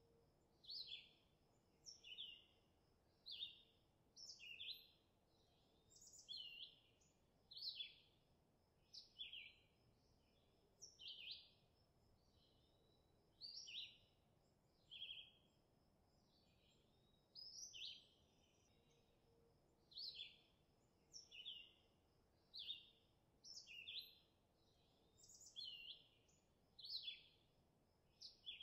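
Songbirds chirping: short, high calls, mostly falling in pitch, repeat about once a second over faint outdoor background noise.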